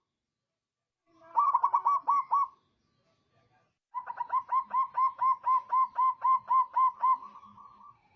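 Zebra dove (perkutut) singing: a short burst of quick cooing notes, a pause, then a longer, even run of about fourteen coos, roughly four a second, ending on a trailing note.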